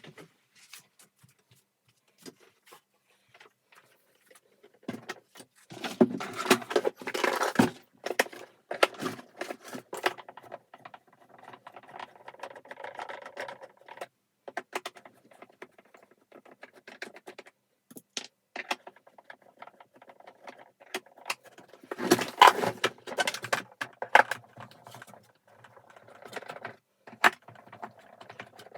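Vacuum cleaner parts being handled during disassembly: irregular clicks, knocks and clattering of hard parts, with two busier bursts of rattling, one about six seconds in and one a little past twenty seconds.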